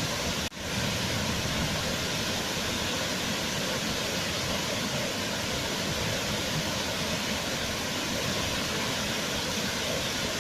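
Waterfall: a steady, even rush of falling water, with a momentary drop in level about half a second in.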